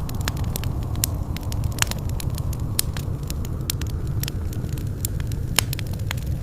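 Fireplace fire crackling, with frequent sharp pops over a steady low rumble of flames; two pops stand out louder, about two seconds in and near the end.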